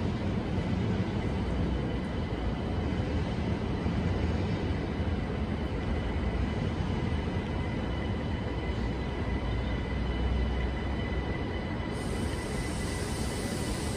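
Passenger train moving slowly through a station: a steady low rumble, with faint steady high tones above it.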